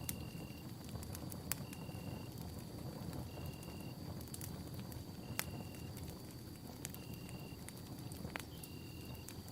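Campfire crackling: irregular sharp pops and snaps over a low rumble of burning wood. Throughout there is a steady high tone, and a short high tone that repeats about every second and a quarter.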